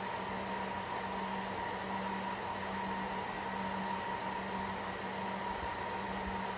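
Cooling fans of an HPE ProLiant DL360 Gen10 rack server running at high speed during its power-on self-test: a steady, loud rush of air with a low hum and a higher whine held in it.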